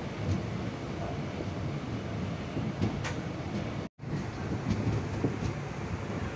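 A passenger train running along the track, a steady rumble with occasional light clicks. The sound drops out completely for a moment about four seconds in.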